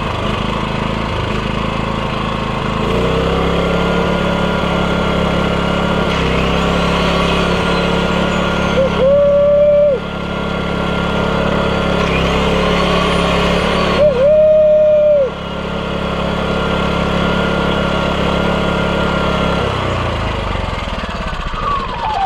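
Small engine running steadily, with two short louder surges, then shutting off near the end. It was just restarted after a fault in its switch was fixed: the switch had not been sitting in the right place.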